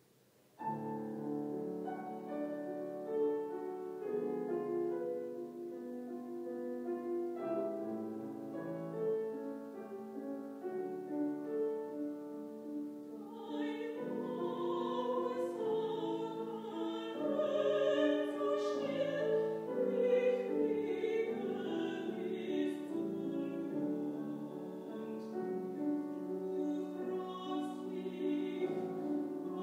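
Piano introduction to a classical art song, joined about 13 seconds in by a woman singing in a trained, operatic style with vibrato, the piano accompanying her.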